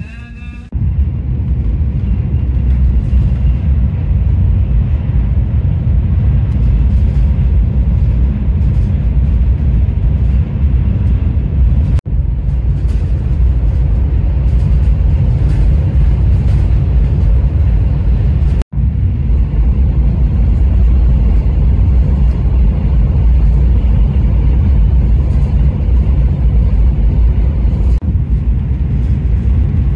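Steady low rumble inside the cabin of the Haramain high-speed train running at speed. The rumble cuts out for an instant twice.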